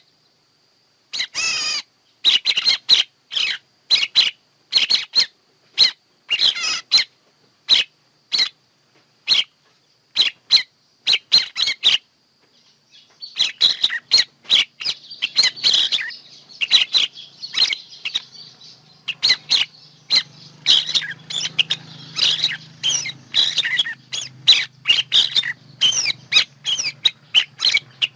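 Songbird lure recording: short chirps repeated about every half second, turning after about thirteen seconds into a denser chorus of overlapping chirps and trills from several birds, with a faint low hum underneath.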